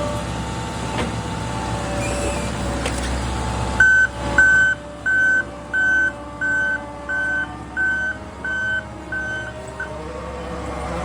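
New Holland C362 skid steer engine running, with its backup alarm beeping about ten times, roughly one and a half beeps a second, from about four seconds in until near the end as the machine reverses.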